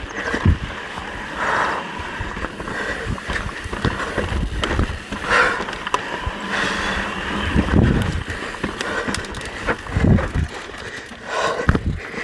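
Mountain bike rolling over a rocky trail: tyres on rock and dirt, with irregular knocks and rattles from the bike.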